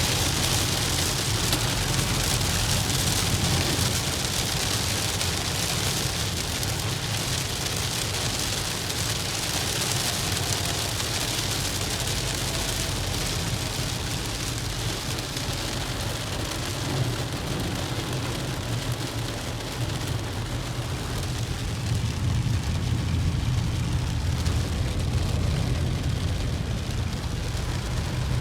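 Steady hiss of rain and wet-road spray over the low rumble of a moving road vehicle. The hiss eases somewhat after the first dozen seconds.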